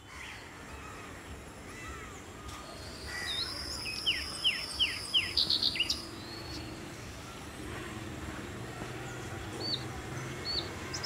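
Wild birds chirping outdoors: a quick run of down-slurred chirps about four to five seconds in, softer arching calls before it and a few short chirps near the end, over a steady low background hiss.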